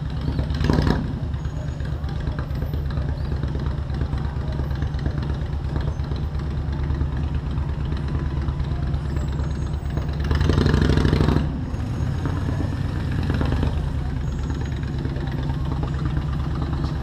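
Motorcycle engine running steadily while under way in city traffic, with a louder rush of noise lasting about a second, about ten seconds in.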